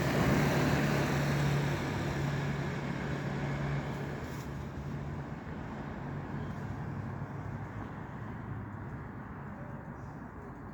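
A road vehicle passing close by: its engine hum and tyre noise are loudest at first, then fade steadily as it drives away.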